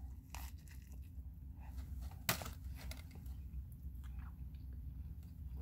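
A person chewing a mouthful of burger with faint, soft mouth sounds and a single sharp click about two seconds in, over a steady low hum in a car cabin.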